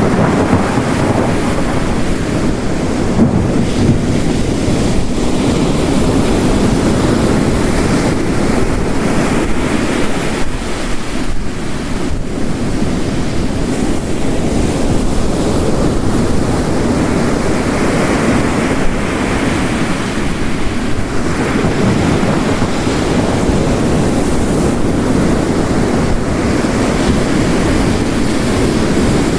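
Ocean waves crashing on a rocky coast, layered with heavy rain, as a dense, steady wash of noise that swells and eases every few seconds.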